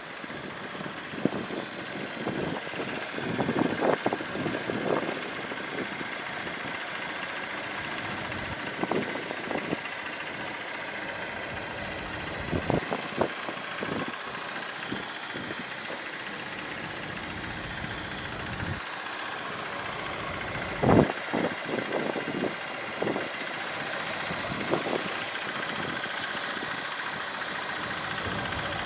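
Steady engine hum with scattered knocks and bumps close by, the loudest about 21 seconds in.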